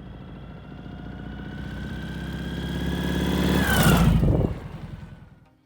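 A motorcycle drives past. Its engine grows louder as it approaches, drops in pitch as it passes about four seconds in, then fades away.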